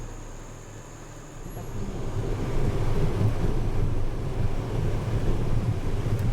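Vehicle running along a road, a low rumble mixed with wind buffeting the microphone; it swells about a second and a half in and stays loud.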